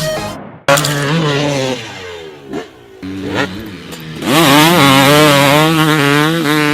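Motorcycle engine running and blipped: a couple of quick throttle blips, then it is held at higher revs from about four seconds in, louder, with a wavering pitch.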